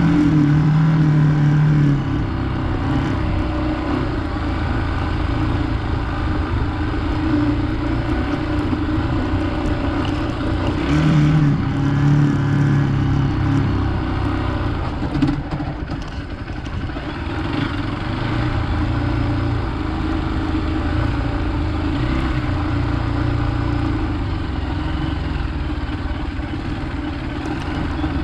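Hero Xpulse 200 motorcycle's single-cylinder engine running in first gear while riding off-road, its revs rising and falling as it engine-brakes on a descent. The engine note climbs twice, near the start and about eleven seconds in.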